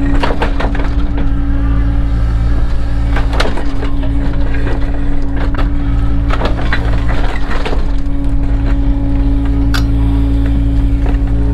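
Cat 307 excavator's diesel engine running at a steady drone, with irregular clattering and scraping of stones and gravel several times over.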